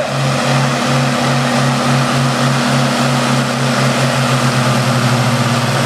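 Two International Harvester tractor engines working together under load as they pull a sled. They run steadily with an even throb that quickens near the end.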